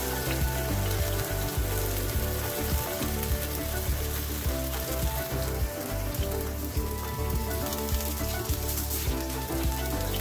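Flour-dough 'vegan chicken' cutlet sizzling steadily as it fries in oil in a nonstick pan.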